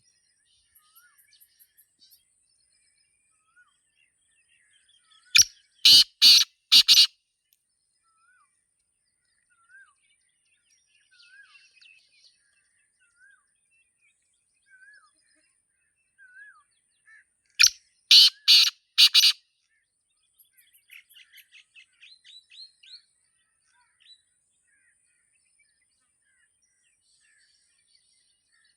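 Black francolin calling: two loud, harsh phrases of four or five quick notes each, about twelve seconds apart. Faint chirps and short whistles of smaller birds come between them.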